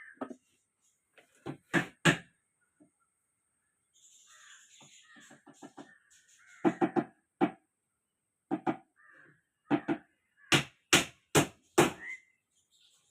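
Birds calling: short, harsh calls in quick groups, with a run of four or five loud ones near the end and a fainter high twittering in between.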